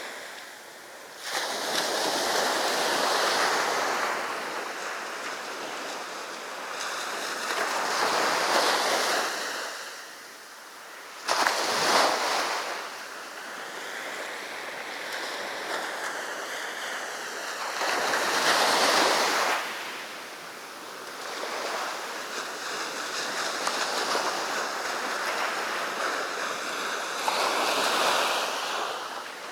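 Sea waves breaking on the beach and washing up the shore, swelling and ebbing about five times, with one sharper crash about eleven seconds in.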